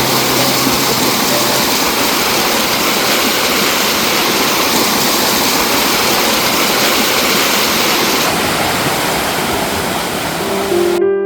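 Mountain valley stream rushing and splashing over rocks, a loud steady rush that cuts off suddenly near the end.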